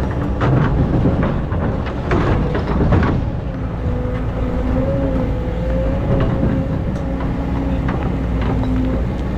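Excavator diesel engine running under load with a loud low rumble, and scraping and knocking as the bucket works into hard-packed sand during the first three seconds. From about four seconds in, a steady, slightly wavering whine sits over the engine.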